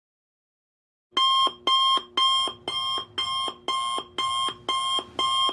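Electronic alarm beeping: nine loud, buzzy beeps at an even pace of about two a second, starting about a second in.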